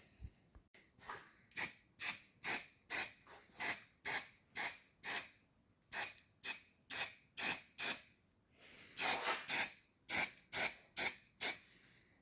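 Rhythmic hand-worked abrasive strokes, about two a second, each a short hiss-like scrape, with a quicker run of strokes a little after the middle.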